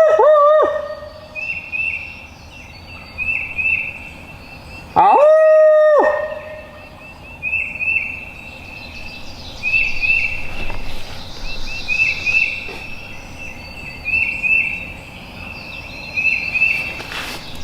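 Small birds chirping in short repeated groups of two or three high notes, with a louder, lower pitched call held for about a second around five seconds in.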